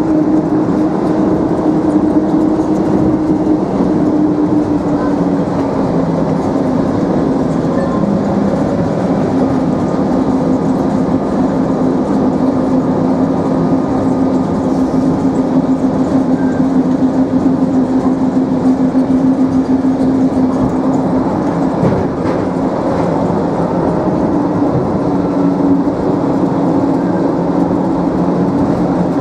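The DFW Skylink automated people-mover train running, heard from inside the car: a steady rumble with a motor tone that dips a little in pitch a few seconds in and rises again near the end.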